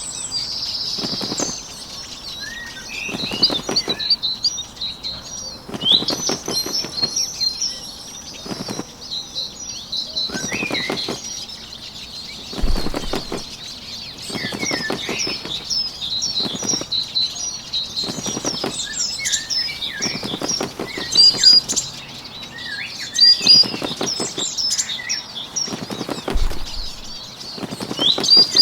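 Bird wingbeats as a sound effect, in short fluttering bursts about every second and a half, over a steady bed of high-pitched birdsong chirping.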